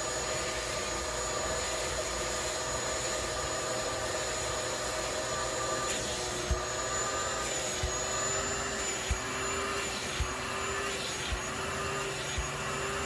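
Vacuum cleaner running steadily, its motor whining, as it sucks carpet deodorizer up out of the car's carpet. From about halfway there are light knocks roughly once a second.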